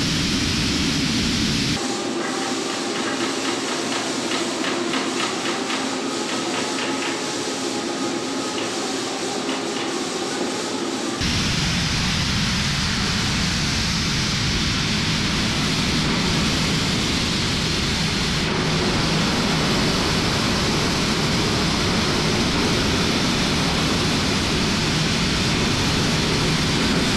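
Dry-ice blasting machine cleaning train parts: a loud, steady hissing rush of the compressed-air blast, which knocks road dirt off the parts. For several seconds before it settles in, a different machine sound with a few steady tones and a fast fine rattle.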